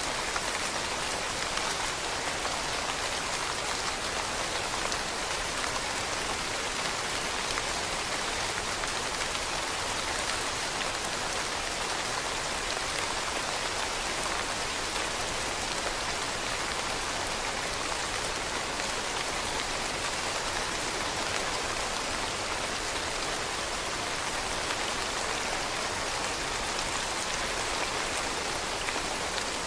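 Steady rain falling on leaves, an even patter with no breaks or changes.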